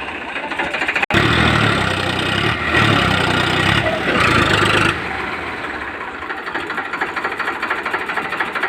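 Tractor diesel engine running. After an abrupt break about a second in it runs louder and heavier for a few seconds, then drops back to a quieter, even pulsing run.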